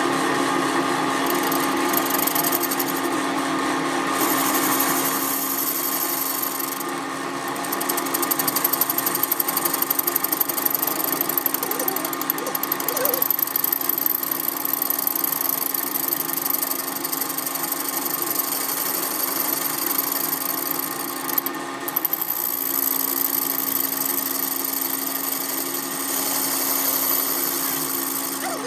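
Workshop machinery running steadily with a held hum, which drops out briefly about 22 seconds in.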